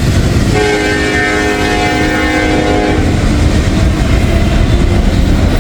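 Freight train passing with a steady low rumble, and a locomotive's multi-note air horn sounding one long chord from about half a second in to about three seconds.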